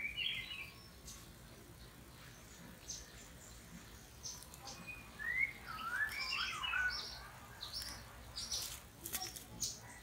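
Songbird calls: scattered short high whistled notes, a run of quick sliding, looping whistles around the middle, and a few sharp ticks near the end.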